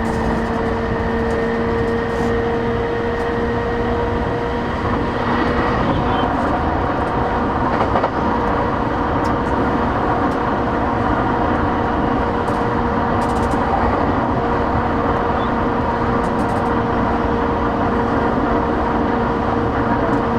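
Cabin running sound of a JR East E233-8000 series electric train at speed: a steady rumble of wheels on rail with the steady whine of its traction motors and inverter. Some of the whine tones drop away about five seconds in.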